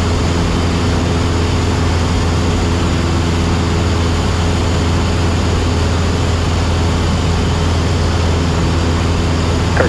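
Cabin drone of a Cessna 172SP in flight: the Lycoming four-cylinder engine and propeller running at a steady power, a constant low hum under an even wash of airflow noise.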